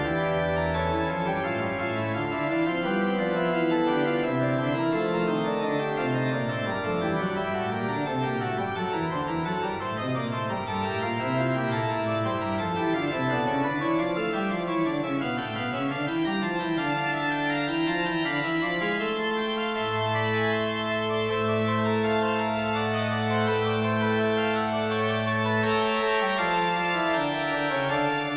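Organ fugue music, with running lines weaving against each other, then settling onto long held chords over a sustained bass note from about two-thirds of the way in until near the end.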